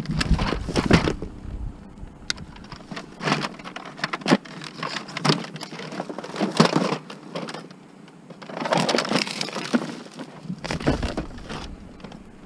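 Curbside scrap being handled while a long power cord is cut off and pulled free: irregular knocks, cracks and rustling clatter, busiest in the first second and again around nine and eleven seconds in.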